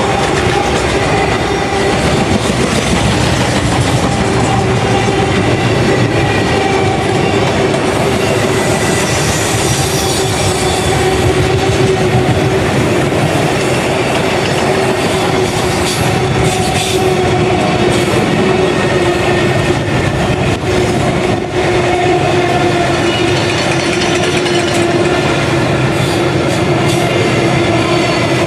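Long freight train of wagons rolling past, a steady rumble of wheels on rail with clicks over the rail joints. Sustained high squealing tones from the wheels run through it.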